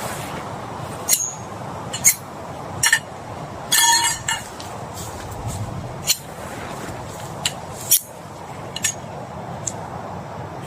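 Steady rain hiss with a series of sharp clinks and knocks from hard objects being handled, one clink about four seconds in ringing briefly.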